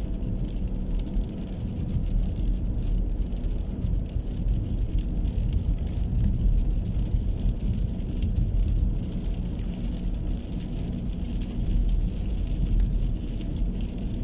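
Steady rain hiss over a constant low rumble.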